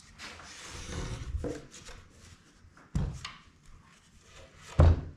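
Wooden camper doors being handled and flipped over: a rubbing scrape, then two thumps as they are set down, the second one louder.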